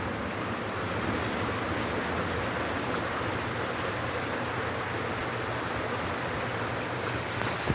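Heavy rain falling steadily, a continuous even hiss of many drops.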